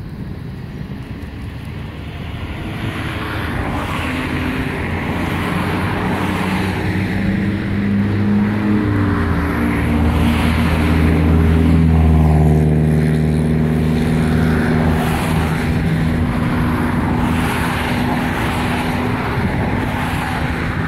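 An engine passing by, growing louder over several seconds, its pitch falling as it goes by and then holding steady.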